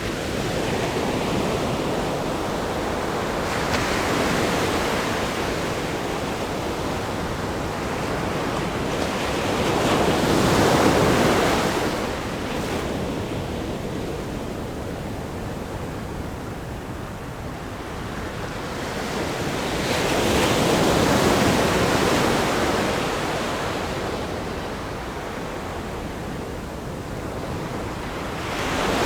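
Ocean surf breaking on a rock groin: a steady wash of water with waves building and crashing every several seconds. The loudest crashes come about a third and two thirds of the way through, with another wave rising right at the end.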